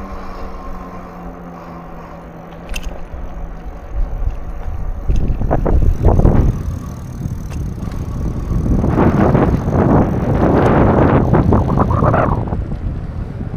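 Bicycle being ridden, with a steady engine hum fading out in the first few seconds, then two loud stretches of rushing noise, a short one about five seconds in and a longer one from about nine seconds.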